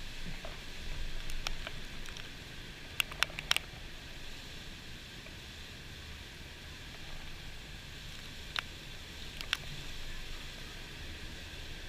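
Steady rushing noise of tropical-storm wind and surf, with a few sharp clicks about three seconds in and two more near the end.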